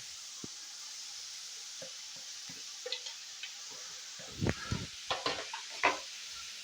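Onions and grated carrots frying in oil in a pan, with a steady high sizzle. A spoon knocks and scrapes against the pan a few times about three seconds in, then several more times in the second half.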